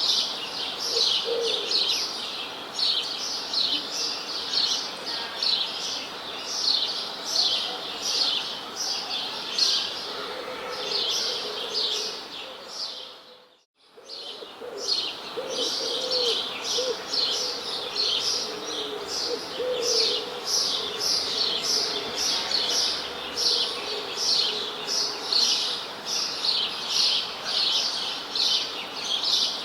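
Birds chirping in a fast, continuous stream of repeated high notes, with occasional lower calls underneath. About halfway through, the sound briefly fades out and comes back.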